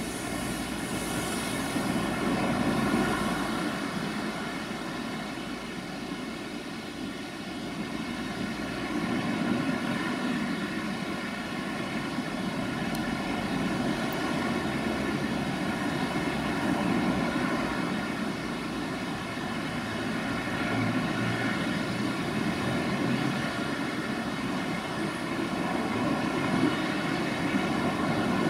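Electroputere 060-DA (LDE2100) diesel locomotive's Sulzer engine droning steadily as it hauls a freight train of tank wagons away, with the wagons' wheels rolling on the track.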